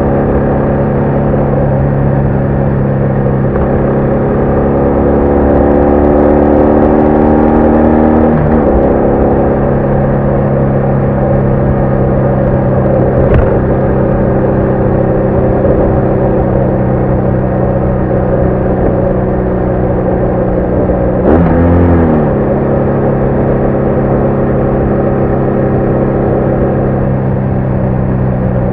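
BMW R1200R boxer-twin motorcycle engine under way, revs climbing steadily for several seconds before dropping sharply at a gear change. It then holds steady, with another gear change near the end.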